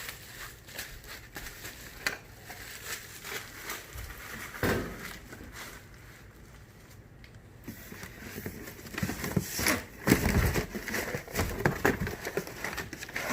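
Plastic packaging crinkling and rustling as parts are unwrapped from a box, with a few dull knocks from the parts being handled, the loudest a little past the middle.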